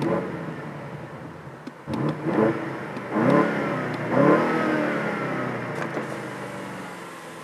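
BMW M8 Competition's 4.4-litre twin-turbo V8 blipped three times in quick succession, about a second apart, each rev rising and falling back, then settling to a steady idle.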